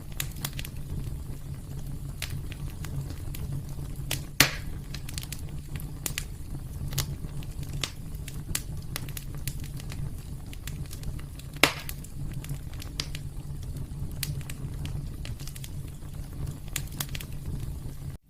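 Wood fire crackling steadily in a fireplace over a low rumble, with scattered small pops and two louder snaps, one a few seconds in and one past the middle.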